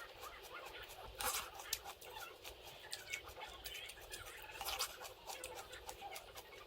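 Eating sounds: many small crisp clicks and crackles of food being bitten or pecked, with a few louder crunches scattered through.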